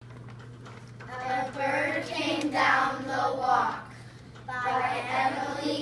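A child's voice in two phrases, starting about a second in and again about four and a half seconds in, over a low steady hum.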